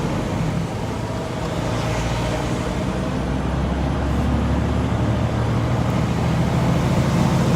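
Tractor-trailer truck driving, heard from inside the cab: a steady low engine hum with road and tyre noise.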